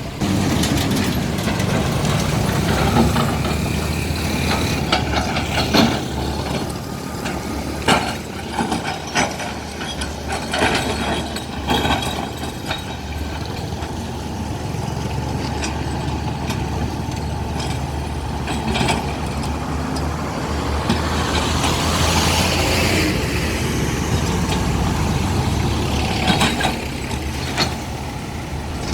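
Diesel engine of a SHANTUI SE210 excavator running steadily under load while it spreads dumped stone, with irregular knocks and clatter of rock against the steel bucket and a stretch of scraping hiss near the end.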